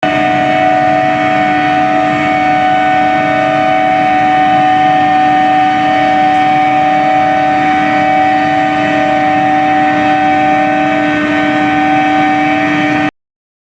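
Steel billet induction heating furnace running: a loud, steady hum of several fixed pitches over a noisy hiss, which cuts off suddenly near the end.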